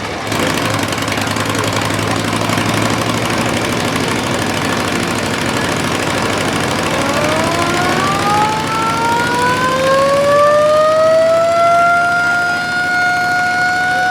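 Motorcycle engines running with a rough, knocking beat, then, about halfway through, a siren winds up steadily in pitch and holds a loud, steady wail over the engines. This is the noise made out front to draw a crowd to a Wall of Death show.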